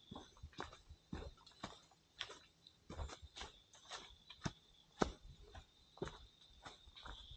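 Footsteps on a dirt forest trail, irregular steps and scuffs about one to two a second, over a steady high-pitched insect drone.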